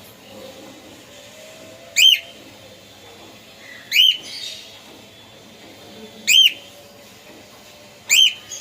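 Cockatiel whistling the same short call four times, about every two seconds, each a quick rise and fall in pitch.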